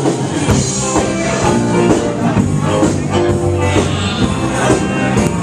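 Live band playing a rockabilly number, with deep bass notes coming in about half a second in under the rest of the band.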